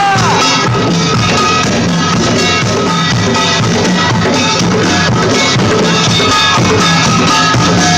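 A band playing live: drum kit and guitar in a steady rock-style song, loud and dense throughout.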